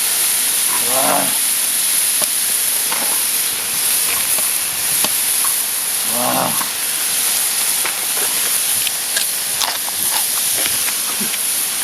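Pork belly sizzling on a cast-iron pot lid, a steady hiss with scattered light clicks and taps. Two short grunt-like vocal sounds come about a second in and about six seconds in.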